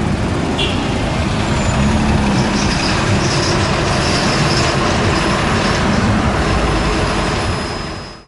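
Fire truck driving close by: a loud, steady heavy engine rumble mixed with road noise.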